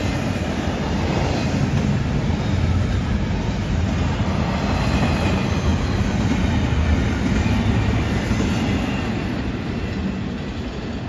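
Freight cars of a CN intermodal train rolling past on a curve: a steady rumble of wheels on rail that eases slightly near the end.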